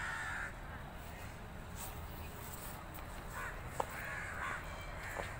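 Birds cawing: one harsh call at the start, then two or three more near the end, over a steady low rumble.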